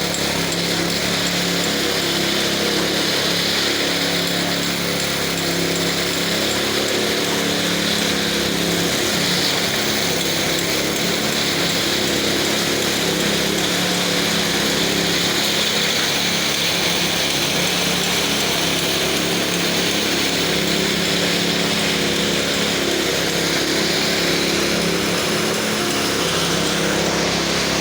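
Portable electric pressure washer running steadily: a motor and pump hum under a continuous hiss.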